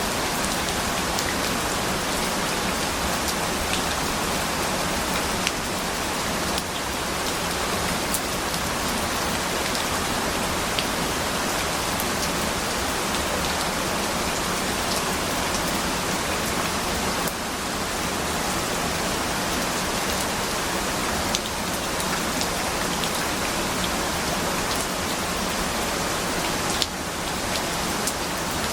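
Steady rain, an even hiss with a few sharper drop ticks scattered through it.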